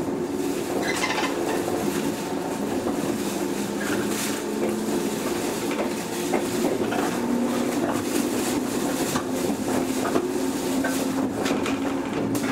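Inside a JR 103 series electric train car under way: a steady mechanical hum with tones that shift in pitch, and scattered short clicks from the running gear.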